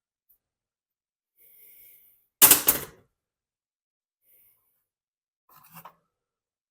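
Mostly quiet, with one short, loud noisy rustle about two and a half seconds in and a fainter clatter near the end: handling noise from hand work.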